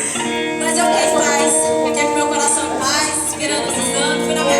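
Gospel worship music: a voice singing over instrumental accompaniment.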